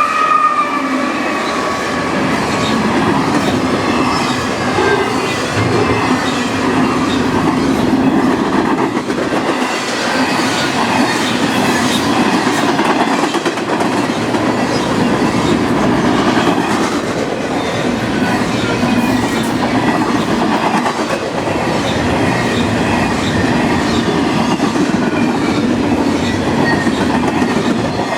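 Double-stack well cars of a long freight train rolling steadily past, wheels clacking over the rail joints, with a faint wheel squeal near the start.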